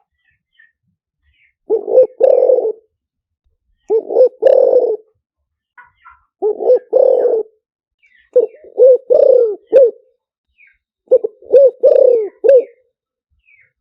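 Spotted dove cooing: a phrase of several coos, repeated five times about every two and a half seconds. This is the male's advertising call, the kind used to lure wild spotted doves to a decoy trap. Faint chirps of small birds sound between the phrases.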